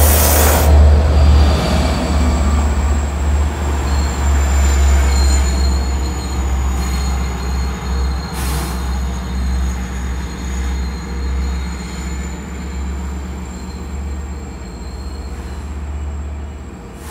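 Long Island Rail Road diesel push-pull train passing close by and then pulling away, the low drone of the locomotive and rolling coaches slowly fading. A thin, steady high squeal from the wheels sounds over it.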